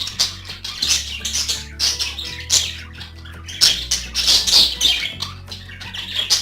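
Budgerigars chattering and squawking in quick, overlapping bursts, over background music with a low bass line.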